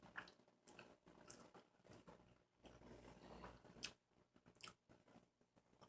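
Faint chewing of a burger, with a few soft, scattered mouth clicks.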